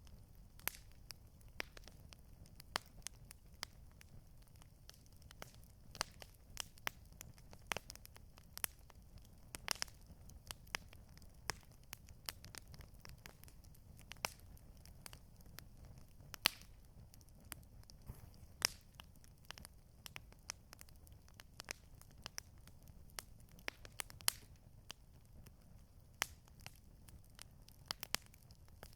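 Campfire crackling: irregular sharp pops and snaps, several a second, over a low steady rumble.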